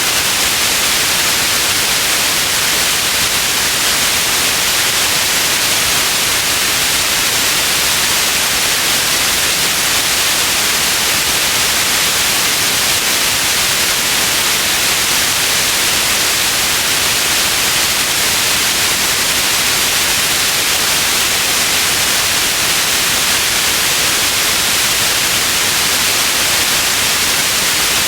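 Steady white noise, an even hiss that stays constant without any change, strongest in the upper frequencies.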